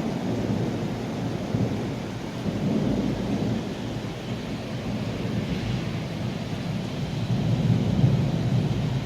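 Rain falling with thunder rumbling through it, the rumble swelling about three seconds in and again near the end.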